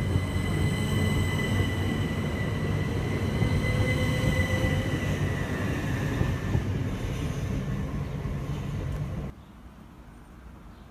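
Southern passenger train running past the platform: the rumble of wheels on the rails with a steady high whine over it. The sound cuts off suddenly about nine seconds in, leaving only a quiet background.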